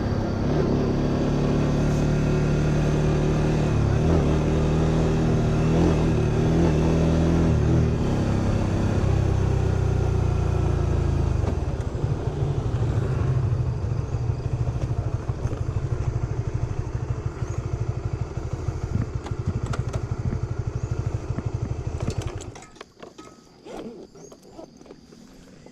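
Honda Winner 150's single-cylinder four-stroke engine running under way, then slowing to a pulsing idle about ten seconds in. It cuts off abruptly near the end, followed by a few faint clicks.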